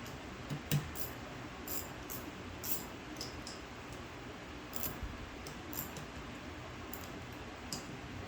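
A dozen or so light metallic clicks and clinks, scattered and irregular, of hand tools and carburetor parts being handled during disassembly, over a low steady hum.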